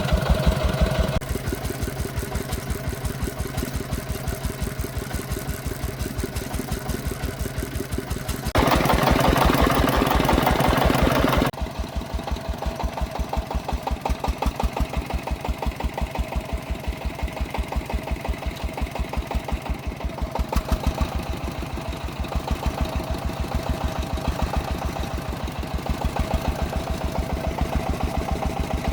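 Single-cylinder diesel engine of a Vietnamese công nông farm vehicle chugging steadily with an even, rapid beat. A louder rush of noise covers it for about three seconds near the middle.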